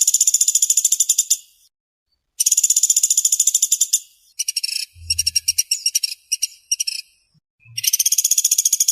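Pelatuk beras (pelatuk sampit) bird giving fast, tightly packed high trills. Each burst lasts about a second and a half, with short pauses between. The third trill is broken up and choppy, and a faint low thud comes about halfway through.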